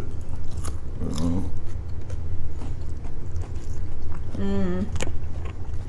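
Close-up biting and chewing of crunchy fried salmon, with small crunches and wet mouth clicks over a steady low hum. A short voiced murmur comes about a second in and again at four and a half seconds.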